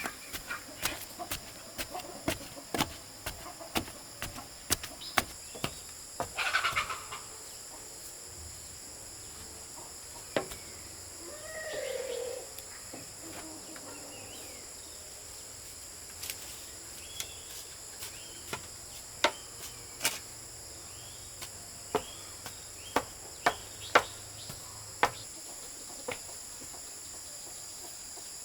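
Irregular sharp knocks and taps, thick through the first seven seconds and sparser later, over a steady high-pitched insect drone. A short pitched animal call comes about twelve seconds in.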